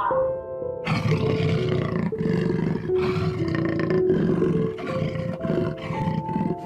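Lion roaring in a series of rough calls, starting about a second in, over soft background music with held notes.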